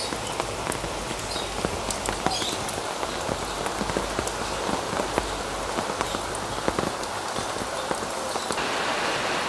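Steady rain falling: an even hiss dotted with many sharp ticks of single drops.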